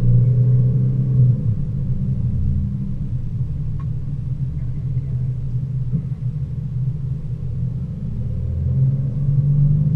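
Mercedes ML350 4matic's V6 engine and tyre rumble heard from inside the cabin while driving a winding mountain road. The engine note drops back about a second and a half in and builds again near the end.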